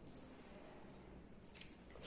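Near silence with a few faint soft clicks and squishes of eating by hand, a couple of them about a second and a half in.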